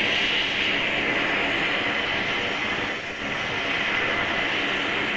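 Oxy-acetylene torch with a neutral flame, hissing steadily as it heats the steel to make the Loctite let go. The hiss dips briefly about three seconds in.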